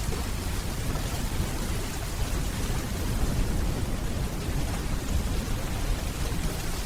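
Steady rainfall, an even hiss with a continuous low rumble of distant thunder underneath.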